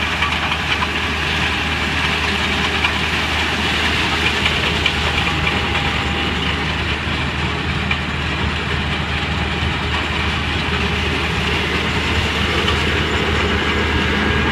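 Combine harvester running steadily while harvesting black beans: a constant low engine drone under an even, dense machine noise that does not let up.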